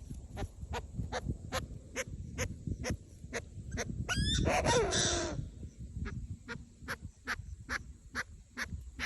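A bird gives one loud call, a little over a second long, about halfway through, its pitch sliding down at the end. Behind it runs a steady series of short clicks, about two or three a second.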